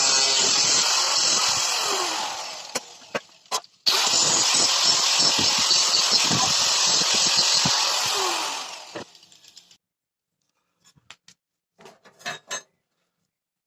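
A handheld electric power tool running at full speed spins down about two seconds in. It starts again abruptly just before four seconds and runs until it winds down near nine seconds. A few light clicks and knocks follow.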